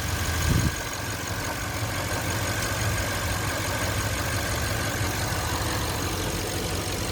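2012 Porsche Panamera Turbo S's twin-turbo V8 idling steadily at its normal low idle, the cold-start fast idle over. A faint steady whine sits above the low engine hum.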